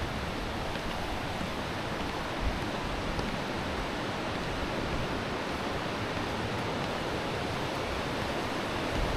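A steady rushing noise, with uneven low rumble and a couple of brief low thumps.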